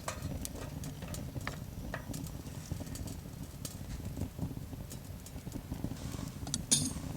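Wood fire crackling, with scattered sharp pops and ticks at an irregular pace and a short cluster of pops near the end.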